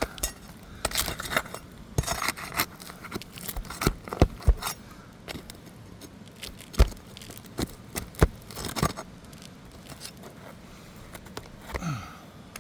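Asphalt shingles being pried loose and scraped on a roof: irregular sharp knocks and clinks of a hand tool against the shingles and nails, with light scraping between them.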